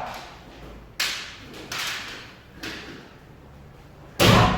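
Kendo practice: sharp cracks of bamboo shinai hitting armour and stamping footfalls on a wooden floor. One sharp hit comes about a second in, two lighter ones follow, and a loud hit lands near the end, each dying away in the hall.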